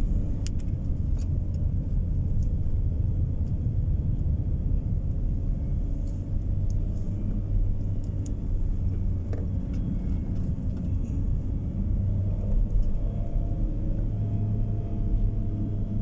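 Steady low rumble of a car on the move, road and engine noise heard from inside the cabin, with a few faint light clicks.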